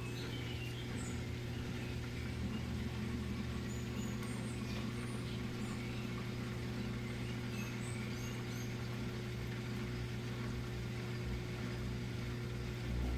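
Midea Wave-Agitator top-load washing machine running mid-cycle: a steady low motor hum.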